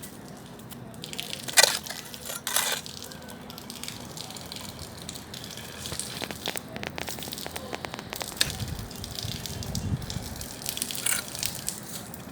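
Bonfire burning, with wood crackling and popping under a steady hiss of flame; two sharp pops stand out between one and three seconds in, and a low rumble grows in the last few seconds.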